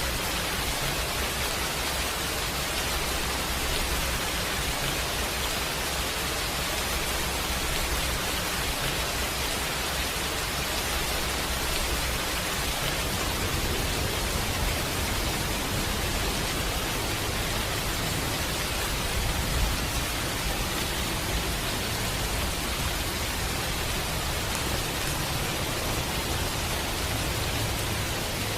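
Steady rain falling, an even hiss with a low rumble underneath that shifts slightly about halfway through.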